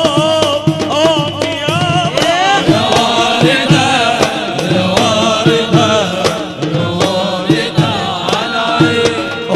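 A male munshid singing an Arabic nasheed in a wavering, ornamented melodic line over regular drum beats.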